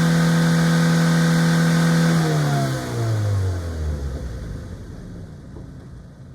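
Mazda MX-5 NC's 2.0-litre four-cylinder exhaust held at a steady high rev, near 5,000 rpm, then the throttle is released about two seconds in and the note falls in pitch as the revs drop, fading away.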